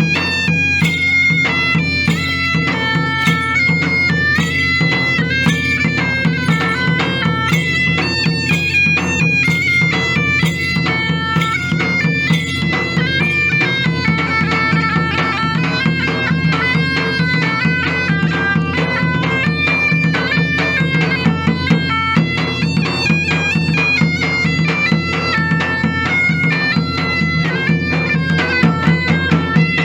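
Bagpipe music: a melody of quick stepping notes played over steady, unchanging drones.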